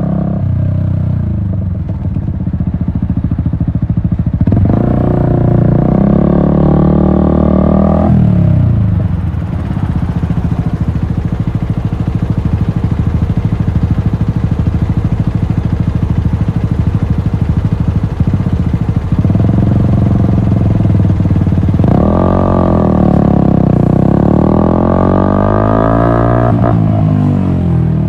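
Yamaha MT-125's single-cylinder four-stroke engine through an Akrapovic exhaust, ridden on the road. The revs climb about five seconds in and drop back near eight seconds, then hold steady. From about twenty seconds they climb again, with the pitch rising and falling through gear changes, before easing off near the end.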